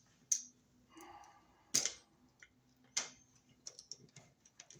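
Scattered sharp clicks and taps from handling a wall receptacle and its wiring, three louder ones roughly a second and a half apart with fainter ticks between.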